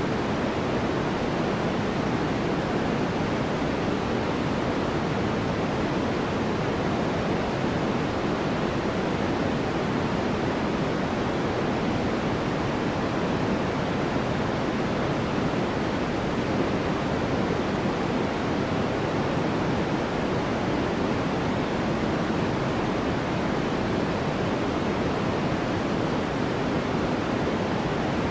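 Steady white noise for sleep: an even, unchanging hiss, fuller and deeper than a thin high hiss.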